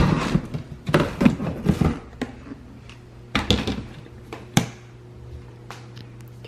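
A delivery package being opened and handled: about two seconds of rustling and knocking, then a few sharp taps and knocks, with a steady low hum underneath.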